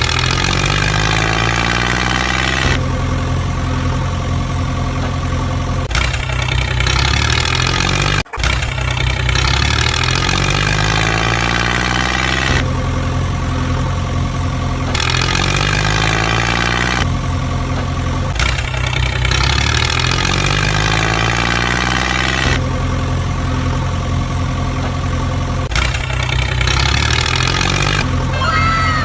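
Tractor engine sound running and revving up in repeated rising sweeps, spliced into segments that change abruptly every few seconds, with a brief cut-out about eight seconds in.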